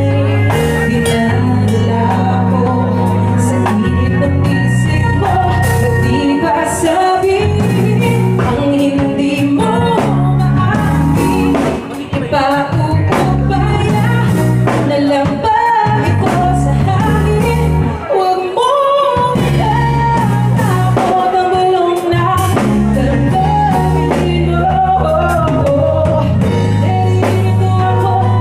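Live band performing a pop-rock song, a lead vocal singing over bass, drums and guitar.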